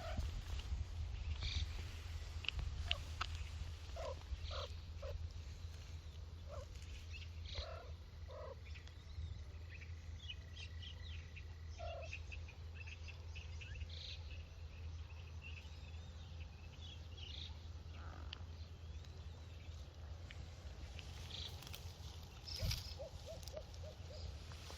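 Scattered short animal or bird calls over a steady low rumble, with one louder high call near the end.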